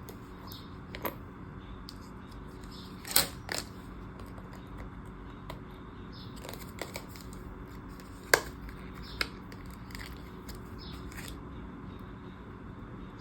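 Scattered light clicks and taps from small planner pieces and charms being handled, the sharpest about three seconds in and again past eight seconds, over a steady low room hum.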